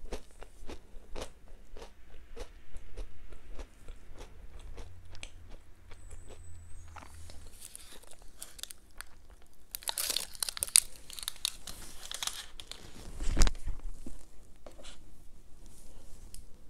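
Close-miked chewing and crunching of crisp wafer-shelled Ferrero chocolates, with a run of sharp crunches. A burst of louder crackling comes past the middle, followed by a single low thump, the loudest sound.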